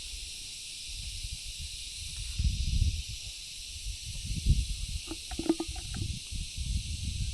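Steady outdoor ambience: an even high hiss, with low irregular rumbles like wind on the microphone, and a short pitched call about five seconds in.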